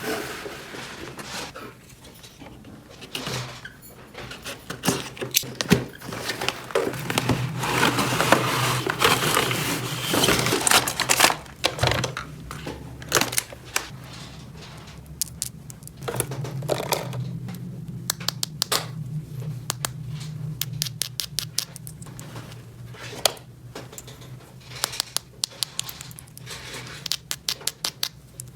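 Hands handling small plastic toy pieces: many sharp clicks and taps with scraping, and a denser stretch of crinkling rustle about a quarter of the way through, over a low steady hum.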